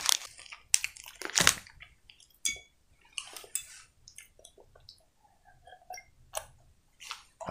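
Someone chewing a sweet with wet mouth clicks and smacks, in short scattered bursts. In the second half come sips and swallows from a mug.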